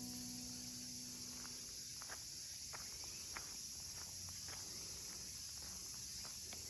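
Piano music fades out near the start. Then quiet woodland ambience: a steady high hiss, with scattered short ticks and clicks.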